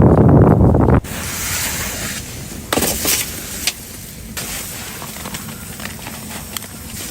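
Blizzard wind buffeting the microphone as a loud low rumble. It cuts off abruptly about a second in, leaving a quieter hiss with scattered clicks and rustles.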